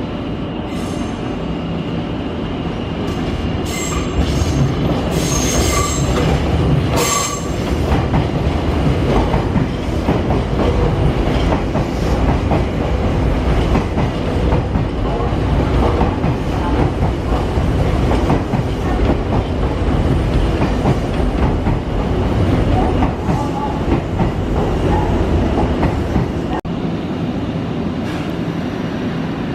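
Nankai electric train rolling slowly along a platform at Namba station, a steady heavy rumble of motors and wheels. Short high-pitched wheel squeals come between about three and eight seconds in.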